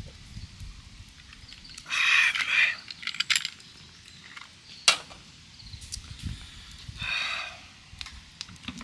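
A frog croaks twice, about two seconds in and again about seven seconds in, each a short, rapidly pulsed call. A few sharp clicks and clinks come in between.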